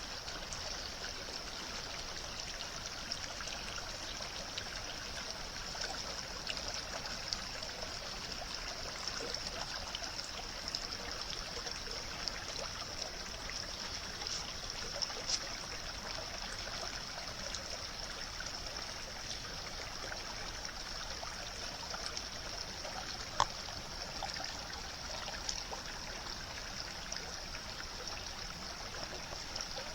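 Steady trickling, rushing noise of running water, with scattered faint clicks and one sharper click about two-thirds of the way through.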